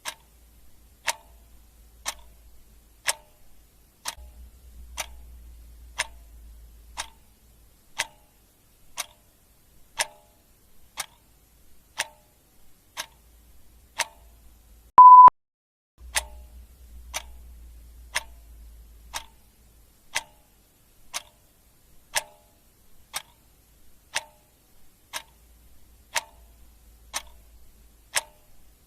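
Clock ticking steadily, one tick a second. About halfway through, a single short electronic beep, louder than the ticks, stands in for one tick.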